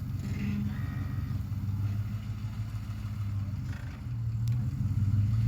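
2008 Ford F-150's 5.4-litre three-valve V8 running under load while pulling on a tree, its engine note growing louder about four seconds in.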